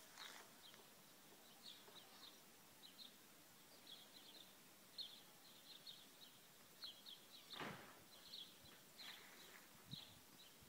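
Faint chirping of small birds: short, high chirps in small irregular clusters. A brief, louder rush of noise comes about seven and a half seconds in.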